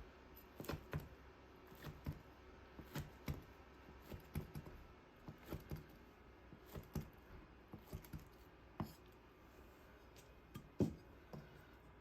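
Irregular light clicks and knocks of small hard objects, up to about two a second, with one louder knock near the end.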